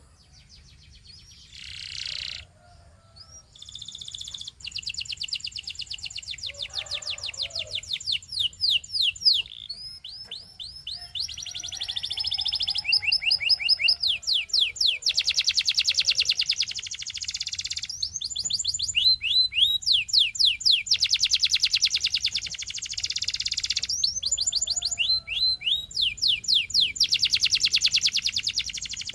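Domestic canary singing long rolling trills of rapidly repeated high notes, switching between phrases of different speed and pitch. It starts softly and is loud and continuous from a few seconds in.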